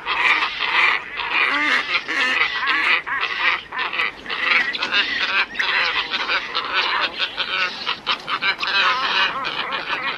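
A flock of glossy ibises calling, many calls overlapping in a continuous chorus.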